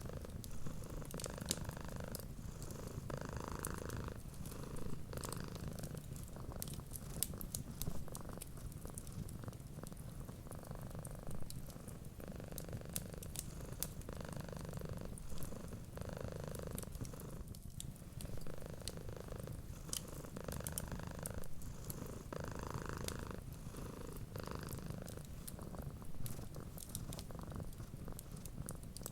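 Domestic cat purring steadily in a low, continuous rumble that swells and eases in slow breathing cycles, with the small sharp pops and ticks of a wood fire crackling throughout.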